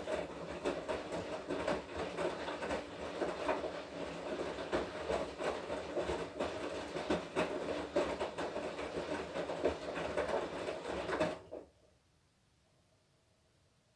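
Washing machine drum turning during a wash cycle: a steady motor whine under a dense, clattering rattle that stops abruptly about eleven seconds in.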